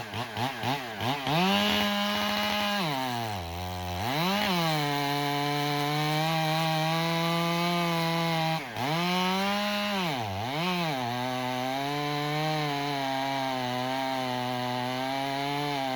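Chainsaw making the falling cut through a large spruce trunk. The engine is blipped up and down several times at the start, then held at a steady cutting speed, with its pitch dipping and recovering under load a few seconds in and twice more past the middle.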